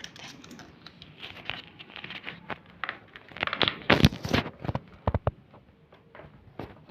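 Sheet of paper being handled and folded, crinkling and rustling in irregular crackles, with a loud cluster of sharp crackles about four seconds in.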